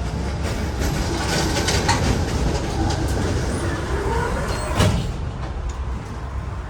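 Tram running along its rails, a steady low rumble with a rising squeal in the middle and one sharp knock about five seconds in.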